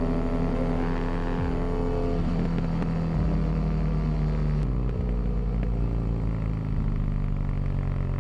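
Motorcycle engine running while riding, its pitch shifting in steps a couple of times, up and then down.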